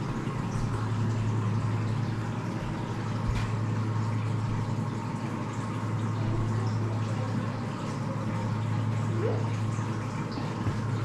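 Aquarium tank's filter pump running: a steady low hum with water trickling and splashing over it.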